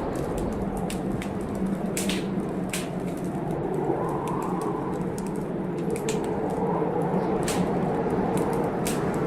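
Wood fire crackling in a fireplace, with irregular sharp snaps and pops. Under it runs a steady rushing noise of storm wind and rain that swells a little about halfway through.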